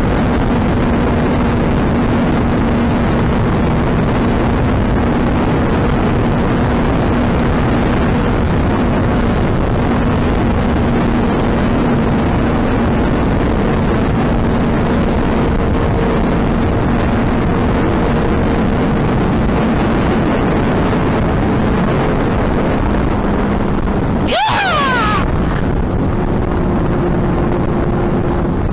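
Suzuki Hayabusa's inline-four engine and exhaust droning steadily while riding at speed, heard under heavy wind rush on the microphone. About three-quarters of the way through the engine note briefly breaks and sweeps upward in pitch, as on a quick shift or throttle blip.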